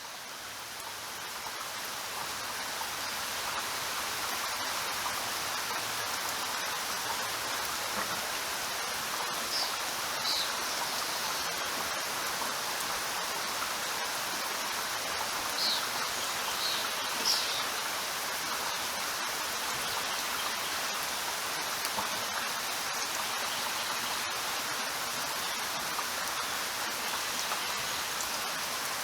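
Steady rain falling, an even hiss that swells up over the first few seconds and then holds level, with a few short high chirps about ten seconds and sixteen seconds in.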